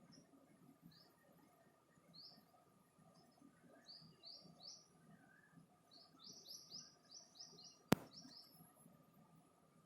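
A small bird chirping faintly: short rising chirps, some in quick runs of several notes. A single sharp click about eight seconds in.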